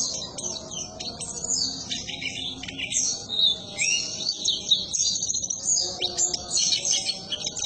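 White-eye (pleci) song: a continuous run of fast, high twittering chirps and short rising and falling glides.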